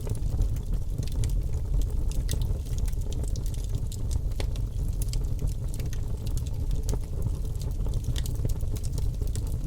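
Wood fire of burning logs in a fireplace: a steady low rumble of flames with frequent small crackles and pops scattered throughout.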